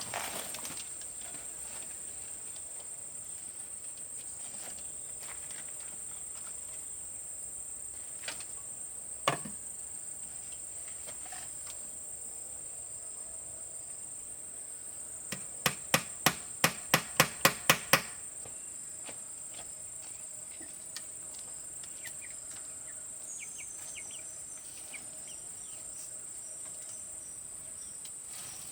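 Insects buzzing steadily in a high, even drone. Two single sharp knocks come about eight and nine seconds in, then a quick run of about ten sharp knocks, roughly four a second, about halfway through.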